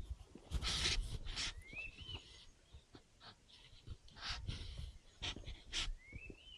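A forest bird gives a short rising whistle twice, the second near the end. Between the whistles come short, irregular noisy bursts.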